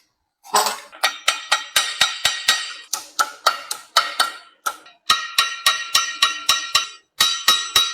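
Hammer striking brass sheet in quick runs of ringing blows, about four a second, with two short pauses. The brass rim is being hammered down over a wire edge to make it tighter and more solid.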